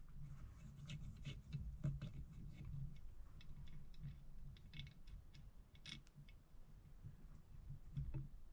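Light, irregular clicks and taps of a screwdriver and small metal carburetor parts being handled while screws are taken out of a Corvair carburetor, over a faint low hum.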